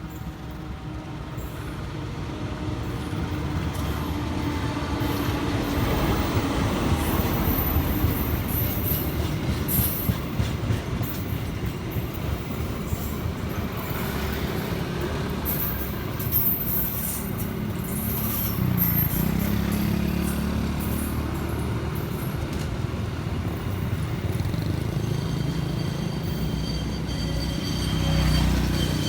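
A train passing on the track: the rumble builds over the first few seconds, then runs on as a long steady roll of wheels on rails, with high-pitched wheel squeal in the middle stretch.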